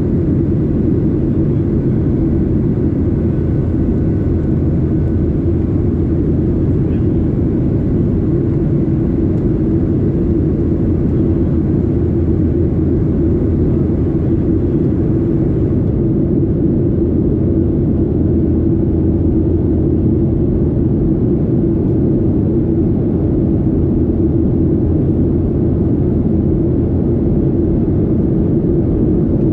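Boeing 737-800 jet airliner's CFM56 turbofan engines and airflow making a steady, loud, deep drone with a constant low hum. The faint hiss above it thins out about halfway through.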